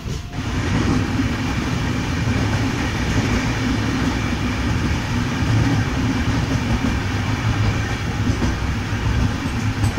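Passenger train's coaches rolling along the track with a steady rumble of wheels on rails, the train pulling away from a station.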